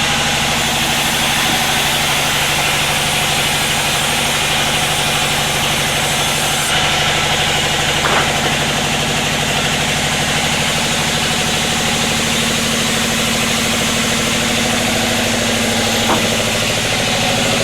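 Sawmill's engine running steadily at a constant, even pitch, with a short knock about halfway through and another near the end.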